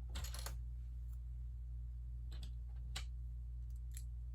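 Small plastic clicks of Lego bricks being handled and pressed together: a quick cluster at the start, then a few single clicks spread through the rest, over a steady low hum.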